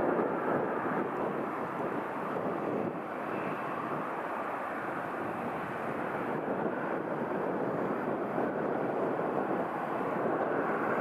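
Jet airliner engines running at taxi power, a steady rushing drone with no sharp events.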